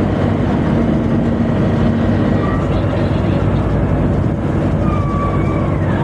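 Tugboat machinery running with a loud, steady drone. A few faint, thin wavering tones show briefly over it around the middle and again near the end.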